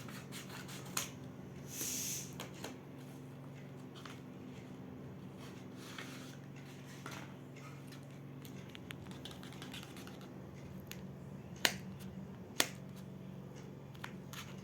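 Hands handling stationery and its packaging: scattered light clicks and rustles, a brief rustle about two seconds in, and two sharp clicks near the end. A steady low hum runs underneath.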